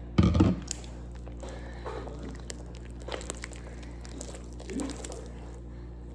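Close handling noises from slime-making with contact lens solution: one loud, deep bump about a quarter second in, then scattered small clicks and crackles over a steady low hum.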